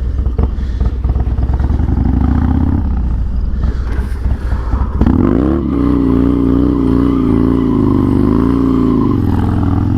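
Harley-Davidson Dyna FXDX's V-twin engine running at low revs with uneven blips, then about five seconds in revved hard and held at high revs, its pitch wavering up and down, as the rider gives it enough throttle to break the rear tire loose for a drift.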